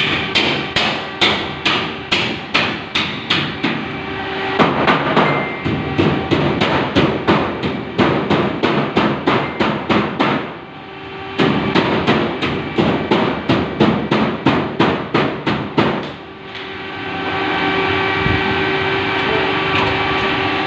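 Hammering, about three blows a second, in two long runs with a short break about ten seconds in. In the last few seconds the blows stop and a steady running machine noise is left.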